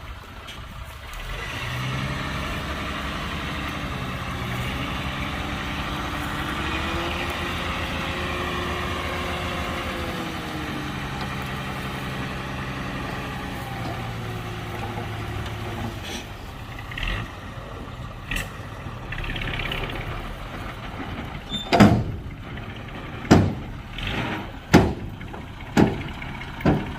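Heavy diesel engine of construction machinery running, its pitch rising and then falling back over several seconds. In the last few seconds come five sharp, loud knocks, a second or so apart.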